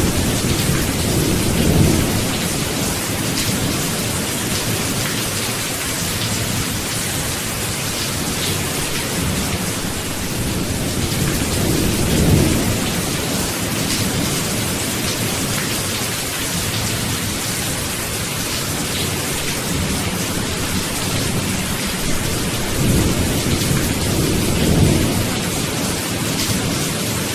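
Steady rain falling in a constant hiss, with low rolls of thunder swelling about two seconds in, around the middle, and twice near the end.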